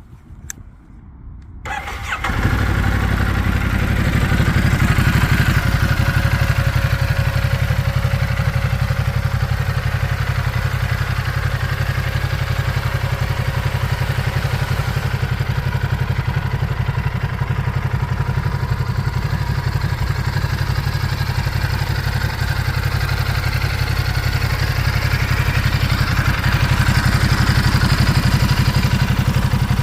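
Ducati DesertX's 937 cc Testastretta L-twin engine starting about two seconds in, then idling steadily.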